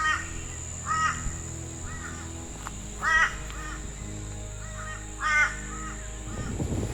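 A crow cawing repeatedly in short harsh calls, the loudest about three and five seconds in, over quiet background music of sustained low chords.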